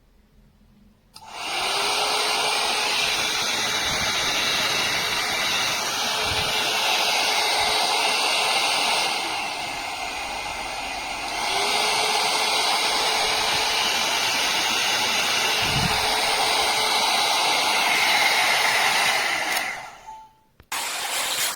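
Hot-air brush hair dryer running: a steady blowing hiss with a faint motor hum that starts about a second in, drops lower for a couple of seconds around the middle, speeds back up, then switches off near the end, with a short burst again just before the end.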